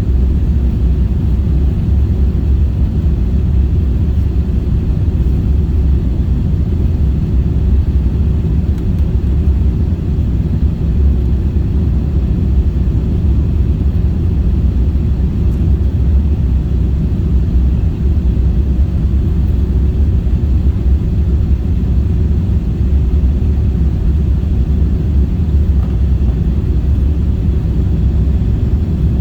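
Steady low rumble of an Airbus A350-1000 airliner heard from inside the passenger cabin: engine and airflow noise, even throughout with no changes.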